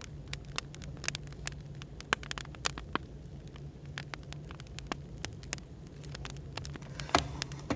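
Burning firewood crackling, with irregular sharp snaps, over a steady low hum of café background noise.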